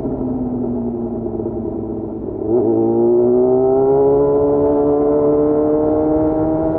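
Yamaha FZ6's 600 cc inline-four engine under way. The revs fall off for the first couple of seconds, then the throttle opens about two and a half seconds in and the engine pulls louder, its pitch rising steadily.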